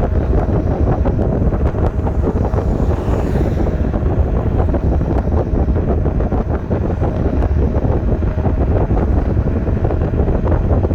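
Wind buffeting a chest-mounted camera's microphone at riding speed on an electric scooter, a steady, loud rumble with road noise underneath.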